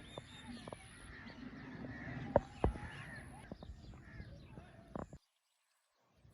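Birds calling over a low steady hum, with a couple of sharp knocks a little over two seconds in; the sound cuts off abruptly to silence about five seconds in.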